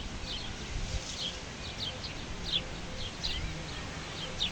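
Small birds calling in short, high chirps, about two or three a second, over a steady low rush of outdoor background noise.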